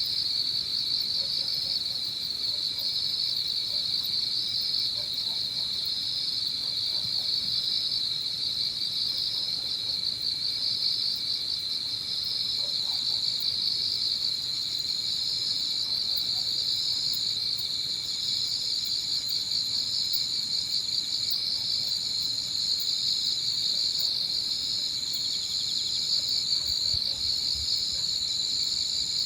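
Evening chorus of autumn insects, crickets among them: a dense, steady high trilling throughout, with a thinner, higher trill joining in about halfway, broken by brief pauses.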